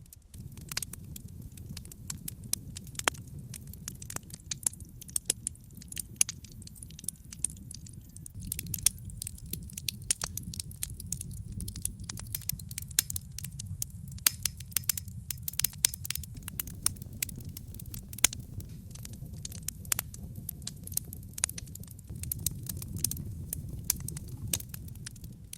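Wood fire burning in a brick fireplace: irregular sharp crackles and pops of burning logs over a steady low rumble of the flames.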